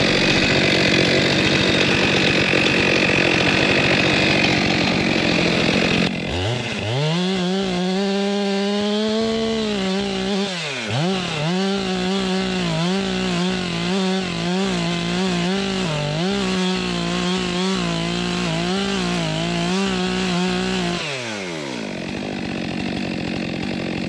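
Stihl two-stroke chainsaw cutting through a log at full throttle. About six seconds in the sound changes abruptly: the engine revs up to a high, wavering pitch that dips repeatedly under the load of the cut. It eases off near the end.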